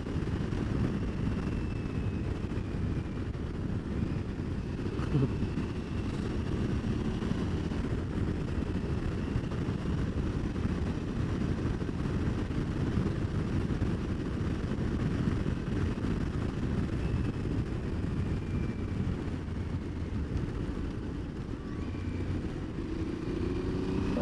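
Aprilia Tuareg 660 motorcycle at steady road speed: a continuous low rumble of wind on the camera microphone with the parallel-twin engine running beneath it.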